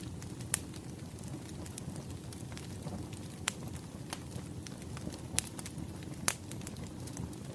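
Wood fire crackling: a steady low rumble of burning logs with scattered sharp pops, four of them louder than the rest.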